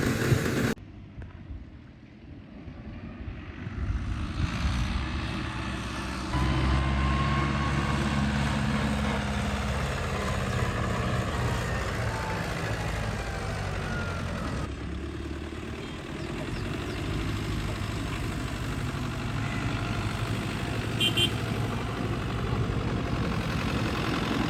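Tractor engine running steadily, with its sound changing abruptly a few times: it drops sharply about a second in, then comes back stronger around six seconds.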